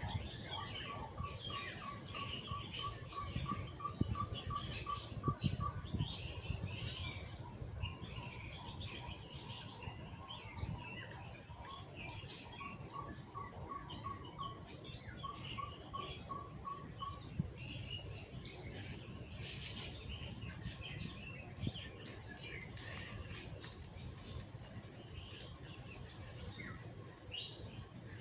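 Garden birdsong: several birds chirping throughout, with one repeating a steady run of evenly spaced notes, about three a second, twice, over a low rumble.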